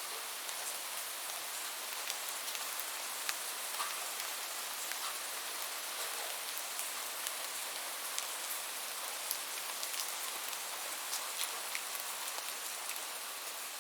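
Steady rain falling, a continuous hiss with many distinct drop ticks scattered through it.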